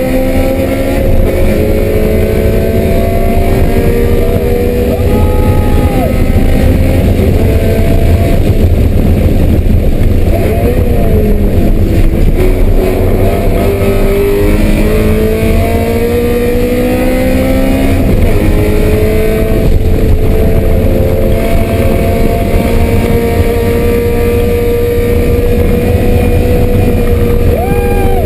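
BMW M3 race car engine running hard on track, its pitch climbing and stepping down as it shifts through the gears, with quick throttle blips about five seconds in and near the end.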